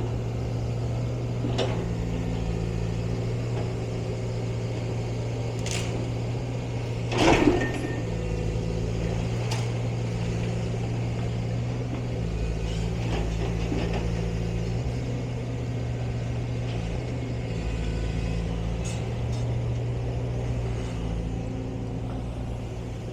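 Diesel engine of a demolition machine running steadily, with occasional knocks and one louder crash about seven seconds in.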